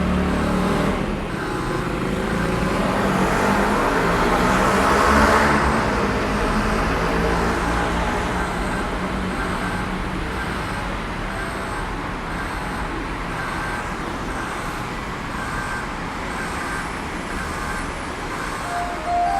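Steady low mechanical hum with road-traffic noise, swelling and easing again about five seconds in. A short steady tone, like the start of a chime, sounds near the end.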